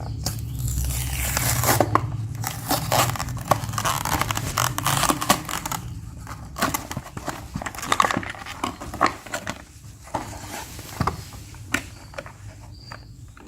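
Crinkling and rustling with many irregular sharp clicks as something is handled, over a low hum that fades about halfway through.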